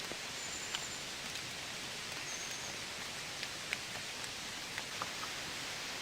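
Steady rain falling, a constant hiss with a few louder drops ticking close by.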